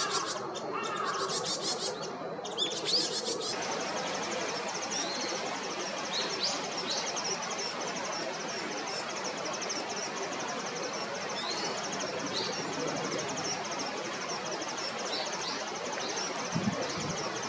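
Japanese white-eye giving short, thin, high rising calls at irregular intervals, over a steady fast-pulsing high background noise. In the first few seconds a different bird is calling, the end of a Varied tit recording.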